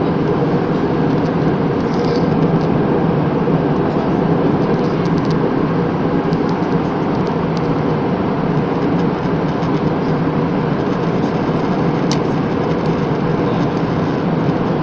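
Steady cabin noise of an airliner in flight: an even, unbroken rush of engines and airflow, deepest in the low range, with a few faint ticks.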